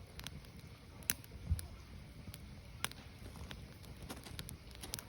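Burning firewood crackling: scattered sharp pops and snaps over a low, steady rumble of the fire, with a few louder pops about a second in and near three seconds.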